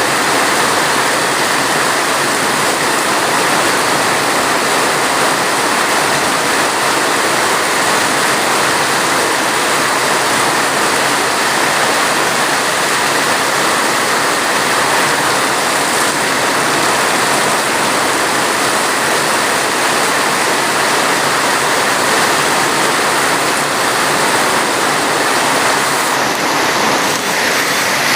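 Heavy, steady rain: a dense, even hiss of rainfall with no single drops standing out.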